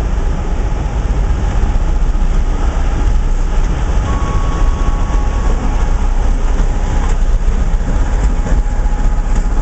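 Class 73 electro-diesel locomotive hauling a test train past at close range: a steady low rumble of engine and wheels on the rails. A brief thin whine comes in about four seconds in.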